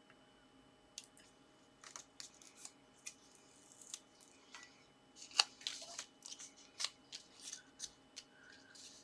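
Paper card being handled, folded and pressed into place: a scattered run of light, crisp clicks and rustles, the loudest about halfway through.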